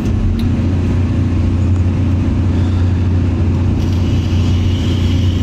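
Caterpillar excavator's diesel engine running steadily under load with a deep, even hum while the bucket works the soil.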